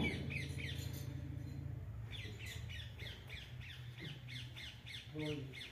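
Birds calling in a fast run of short repeated chirps, several a second, over a steady low hum.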